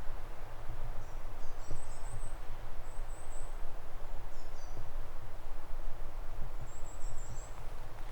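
A small songbird chirping in short, high phrases, about five times, over a steady low rumble and the faint hush of the forest.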